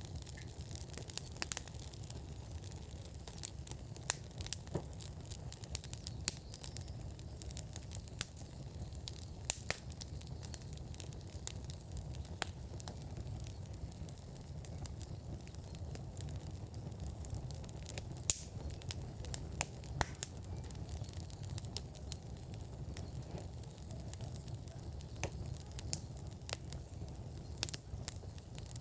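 Wood fire burning in a fire pit, with irregular crackles and sharp pops over a low, steady rumble.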